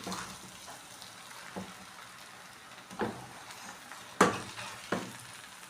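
Stir-fry noodles sizzling in a pan as they are stirred, with a utensil knocking against the pan about five times, the loudest knock a little past four seconds in.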